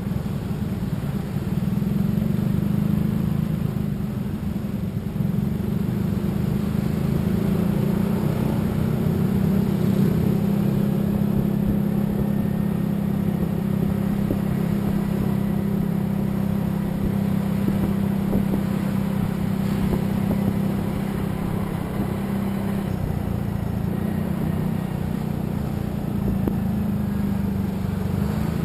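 Motor vehicle on the move at a steady speed: a continuous low engine drone with road and wind noise.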